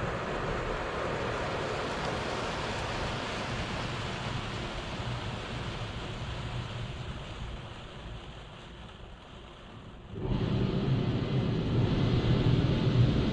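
Automatic car wash machinery running: a steady rushing wash of spray or air that dies down somewhat over several seconds, then a louder, deeper rush cuts in abruptly about ten seconds in as the next stage starts.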